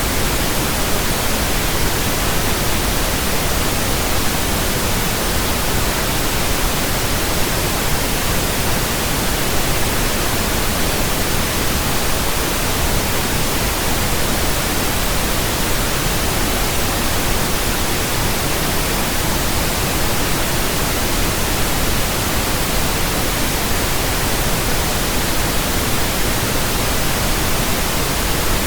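Steady pink noise from an electronic pink noise generator: an even, unchanging hiss across all pitches, played as a burn-in track for new speakers and headphones.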